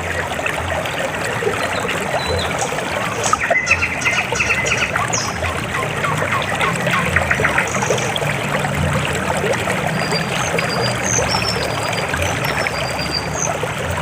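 River water flowing steadily over rocks, a dense rush of splashing and trickling, with a few faint high chirps in the second half.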